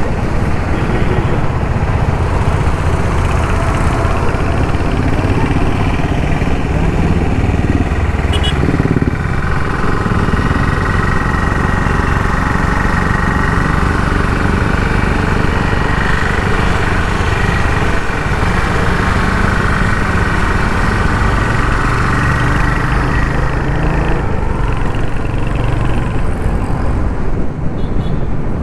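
Royal Enfield Hunter 350's single-cylinder engine and exhaust running steadily on the move in traffic. A higher steady whine sits over it for much of the middle stretch.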